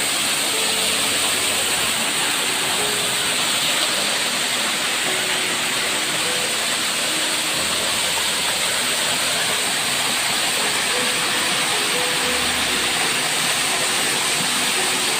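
Small waterfall heard close up: a loud, steady rush of falling water that never lets up.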